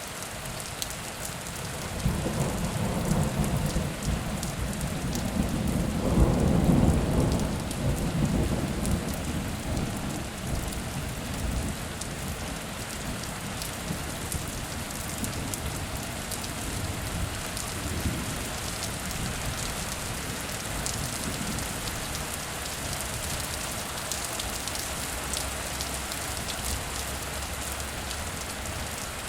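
Heavy rain falling steadily, with a roll of thunder that starts about two seconds in, peaks a few seconds later and rumbles away over the next ten seconds or so.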